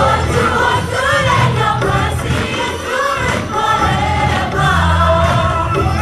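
Gospel choir singing over a band with a steady bass line.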